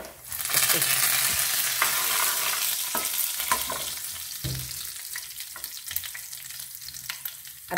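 Fresh curry leaves hitting hot oil with fenugreek and cumin seeds in a frying pan for a dal tempering. They sizzle loudly, with scattered sharp crackles. The sizzle surges just after the leaves go in and slowly dies down.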